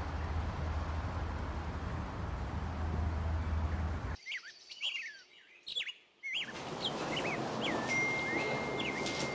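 Small birds chirping in quick, repeated calls, preceded by a few seconds of street noise with a low hum that cuts off suddenly. A steady high whistle sounds for a moment near the end.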